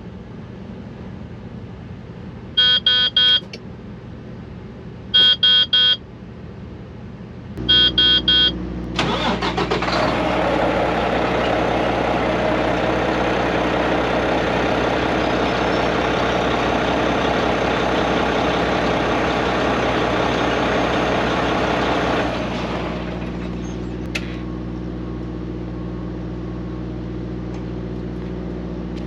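Three quick sets of electronic warning beeps, then a Mack MP8 13-litre inline-six diesel catches about seven and a half seconds in, with no long crank, now that its injectors have been replaced. It runs loud for about thirteen seconds, then settles to a quieter steady idle.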